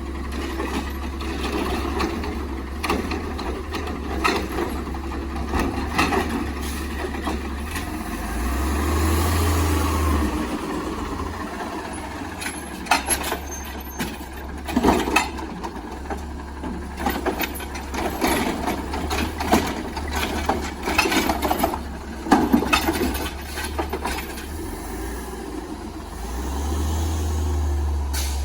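Automated side-loader garbage truck idling, with its engine revving up twice to power the lifting arm's hydraulics, and loud clanks and bangs in between as a recycling cart is lifted, dumped into the hopper and set back down.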